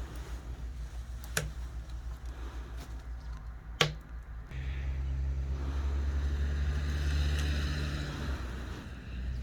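Low, steady engine hum with two sharp knocks in the first half, then a louder engine sound with a hiss over it from about halfway, swelling and fading away near the end.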